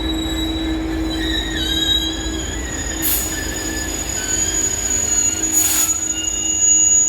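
Train wheels squealing against the rails, several thin high-pitched tones that wander and step in pitch, over a steady low hum. Two short hisses come about three and six seconds in.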